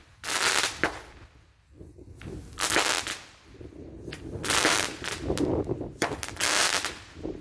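Consumer firework cake firing shots, four noisy bursts about half a second long, spaced a second and a half to two seconds apart.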